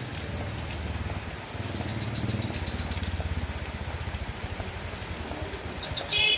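Steady rain falling, over a low rumble that pulses rapidly underneath. A quick run of high, evenly spaced ticks comes about two seconds in, and a short, loud high chirp comes just before the end.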